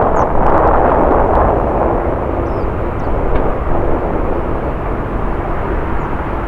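Jet airliner's engines running loud on the runway, a broad steady roar that slowly fades.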